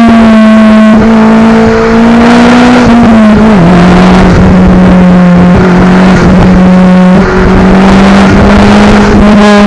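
Daihatsu Copen L880K's 660 cc turbocharged four-cylinder running under load on its exhaust, a loud steady drone that drops in pitch about three and a half seconds in and then holds steady.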